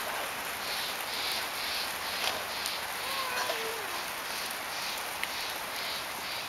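Steady hiss of rain falling during a summer hail shower, with a soft rhythmic sound repeating about three times a second.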